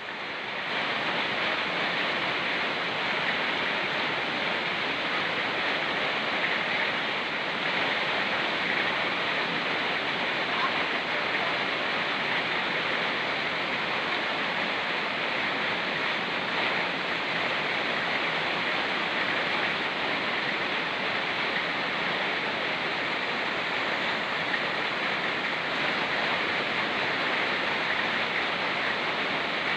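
Fast-flowing mountain river rushing steadily, with rain falling: a constant, even rush of water.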